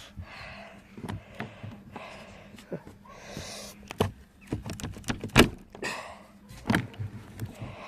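Chicken coop door being opened and handled: a string of knocks and clunks with rustling between them, the loudest clunk about five and a half seconds in.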